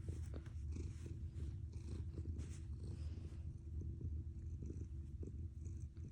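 Domestic cat purring steadily with a deep, engine-like rumble.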